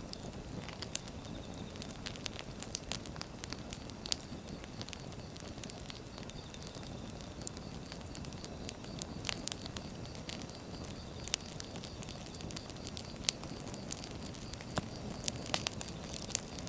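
Firewood burning: a steady low rush of the fire with irregular sharp crackles and pops throughout.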